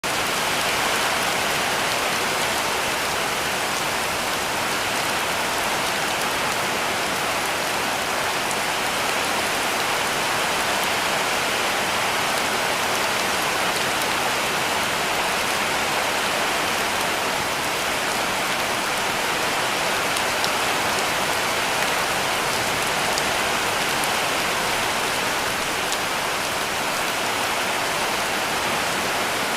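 Heavy rain falling steadily on a cabin roof: an even, unbroken hiss with scattered faint ticks of single drops.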